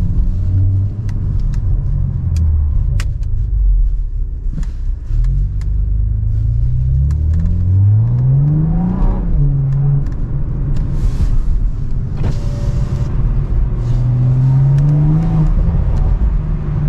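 BMW M340i's turbocharged 3.0-litre inline-six running through an aftermarket downpipe, with an otherwise stock tune. The engine note climbs steadily for about four seconds, drops sharply as it shifts, then climbs again briefly near the end, with a light burble and several sharp clicks in the first few seconds.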